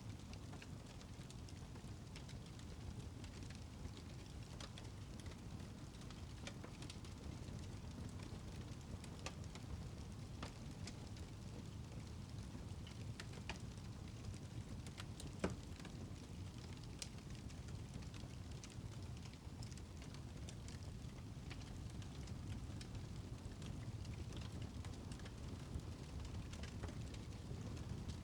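Wood fire crackling in a fireplace: scattered small pops over a low, steady rumble, with one sharper pop about halfway through.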